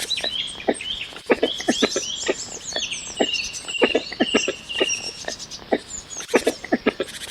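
Several birds chirping and calling over one another, with quick high chirps, short whistled trills and frequent short lower calls.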